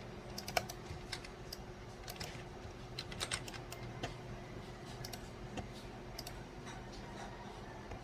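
Irregular clicks of computer keyboard keys being pressed, in short bunches, over a steady low hum.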